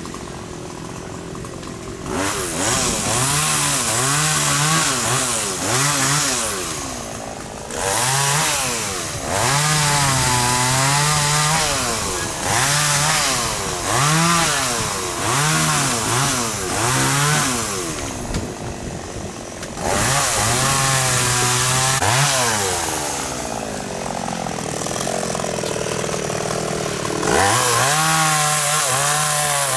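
Two-stroke chainsaw cutting xà cừ (African mahogany) wood: it idles for the first couple of seconds, then is revved again and again, its pitch climbing and falling every second or two as it bites in and eases off, with a few short drops back toward idle.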